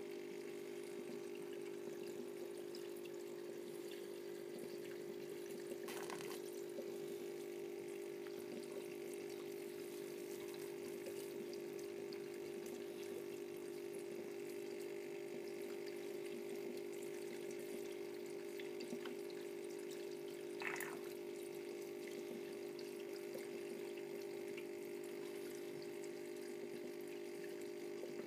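Fish tank sludge cleaner's small water pump running with a steady hum, water moving through it. Two brief louder sounds break in, about a quarter of the way through and again about three-quarters through.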